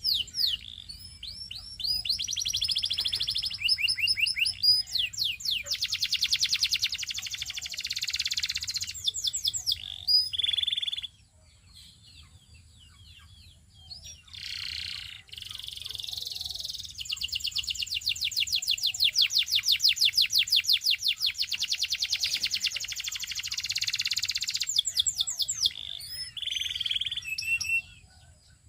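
Canary singing: long runs of fast, evenly repeated high trill notes, broken by a few seconds' pause near the middle before the song resumes.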